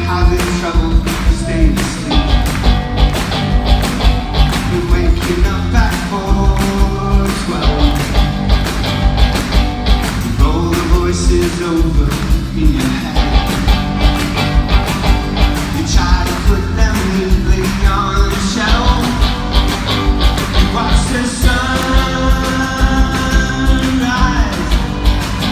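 A rock band playing live in a concert hall, with singing over guitars and a steady, driving drumbeat.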